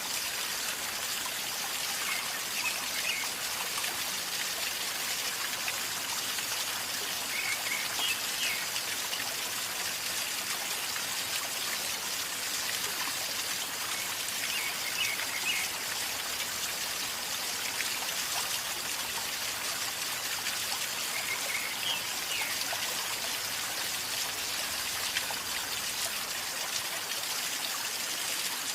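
River flowing calmly with a steady gurgling rush of water. A faint short chirp recurs four times, about every seven seconds.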